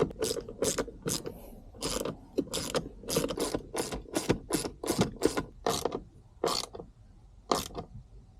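Hand ratchet wrench worked in quick back-and-forth strokes, about two a second, tightening the bolts of a short shifter assembly. The strokes slow and stop near the end.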